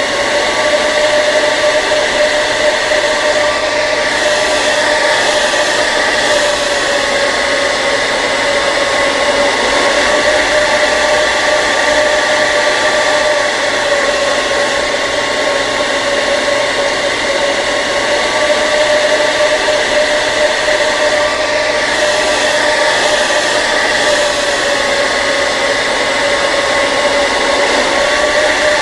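Hair dryer running continuously: a steady motor whine over the rush of blown air.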